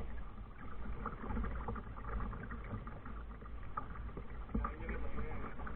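Kayak on the water: irregular splashes and knocks of water and paddle against the hull, over a steady low wind rumble on the microphone.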